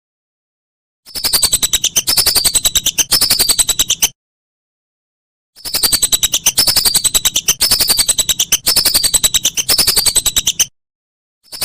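Whistling duck (belibis) calls: bouts of fast chattering whistles built from repeated high falling notes, roughly two a second. The bouts start and stop abruptly with dead-silent gaps between them, as in an edited, looped recording.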